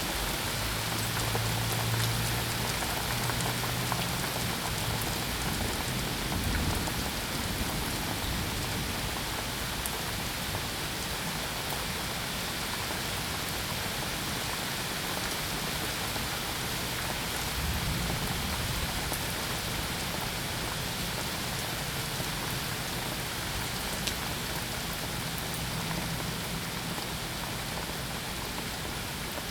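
Steady rain falling on surfaces, an even hiss of drops, with a few soft low rumbles coming and going underneath.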